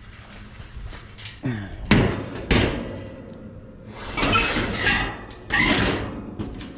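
Hand work on a condenser unit: two sharp knocks about two seconds in, half a second apart, then two stretches of scraping, rattling clatter of metal parts and tools.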